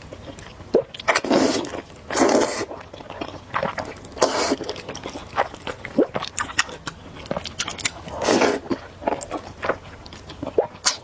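Spicy zhajiang noodles being eaten close to the microphone: several loud slurps about half a second long, with wet chewing and lip smacks between them.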